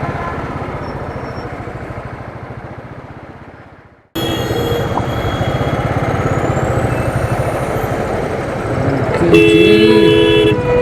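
Royal Enfield Thunderbird's single-cylinder engine running with road noise while riding in traffic, fading out about four seconds in and then cutting straight back in. Near the end, vehicle horns honk several times.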